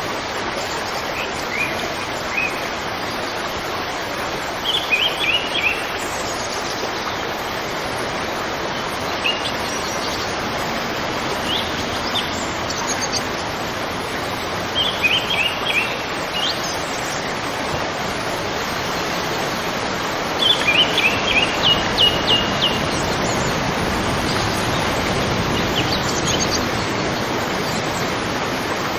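River water flowing with a steady rushing sound, while a small bird chirps in short quick runs of high notes every few seconds; the loudest run comes about twenty seconds in.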